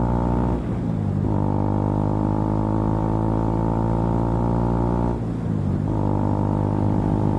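KTM Duke 200's single-cylinder engine running at steady cruising revs under the rider. The note dips briefly twice, about half a second in and about five seconds in, then settles back to a steady drone.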